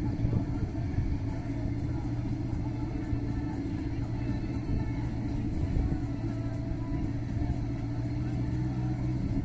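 Turbocharged Honda Civic engine idling, a steady low rumble that holds an even pitch.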